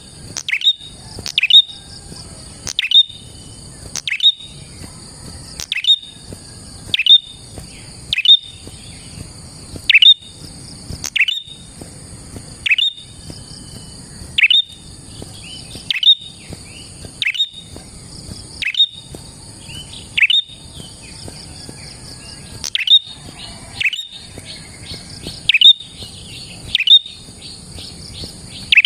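A prenjak (prinia) calling gacor-style: sharp, high chip notes that sweep downward, repeated about once every second and a half, with a steady high buzzing behind them.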